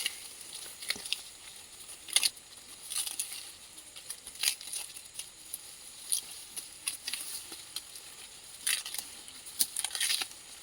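Dry plant material rustling and crackling in irregular crisp snaps, a dozen or so over the span, some close together.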